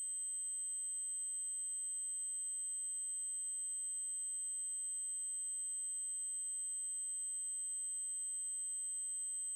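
Synthesized 8192 Hz triangle-wave test tone: a single steady, very high-pitched whine that holds unchanged.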